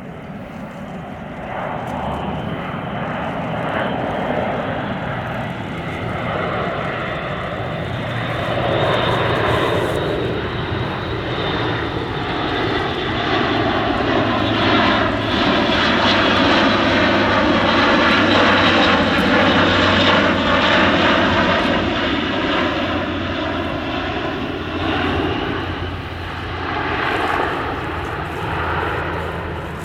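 Airbus A400M Atlas's four turboprop engines running in a flying display pass. The engine noise swells to its loudest about two-thirds of the way through, with the sweeping, phasing sound of an aircraft going by, eases off, then swells again near the end.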